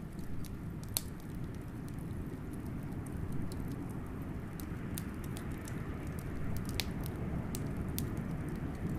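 Wood fire crackling with scattered sharp pops, the loudest about a second in, over a steady low rumble of blizzard wind.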